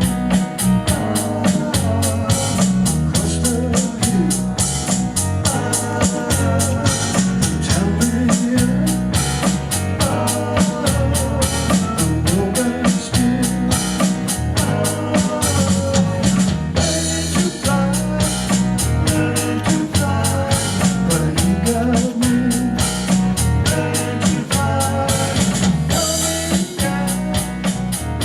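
A small band playing an instrumental groove: drum kit keeping a steady beat under a bass line and guitar.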